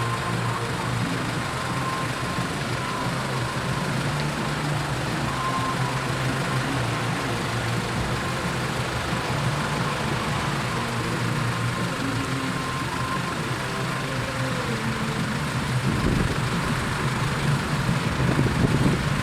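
Vehicle engine running steadily with a low hum, and a louder rumble building near the end.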